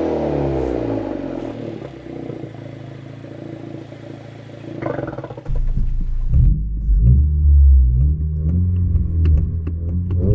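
2022 Honda Civic Si's 1.5-litre turbocharged four-cylinder through a Remark cat-back exhaust. The revs fall away and settle to a quieter, lower note. About halfway through, a much louder, deep exhaust drone comes in, its pitch stepping up and down with the revs.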